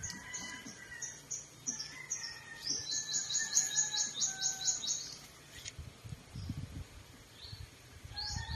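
Small birds chirping in tropical countryside: one bird gives a fast run of high, sharp chirps, about four a second for some three seconds in the middle, over fainter whistled notes from other birds. A few soft low thumps come near the end.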